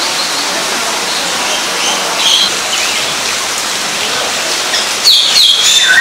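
Birds chirping in short calls over a steady hiss, with a louder burst of chirping near the end.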